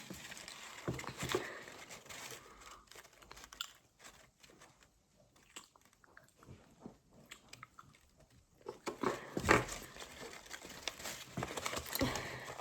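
Crinkling plastic packaging and paper being handled, with scattered small clicks and crackles and a louder cluster of crackles about nine seconds in.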